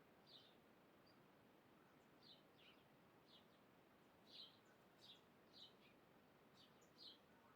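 Faint, short bird chirps repeated about every half second to a second, over a soft steady background hiss.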